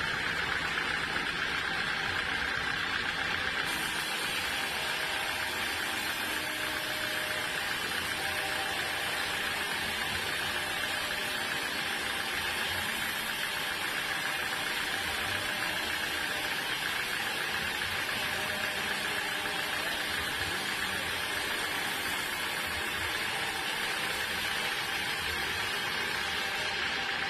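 Sawmill machinery running steadily: a constant mechanical hiss with a steady whine held at one pitch throughout.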